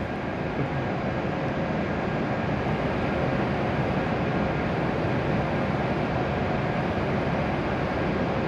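W7 series Shinkansen train creeping to a stop alongside the platform, giving a steady hum and rumble with a few faint steady tones in it.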